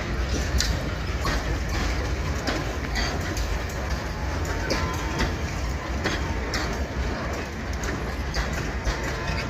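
Freight train of loaded grain hopper wagons rolling past: a steady low rumble with irregular clicks and clanks from the wheels and couplings.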